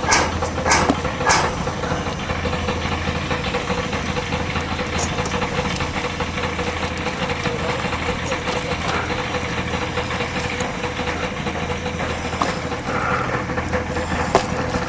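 Engine running steadily, a constant low hum with a steady tone over it. A run of sharp knocks, a little under two a second, stops about a second and a half in.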